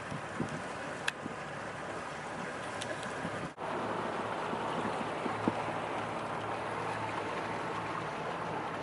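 Motorboat under way: a steady engine drone mixed with rushing water, broken by a brief dropout about three and a half seconds in.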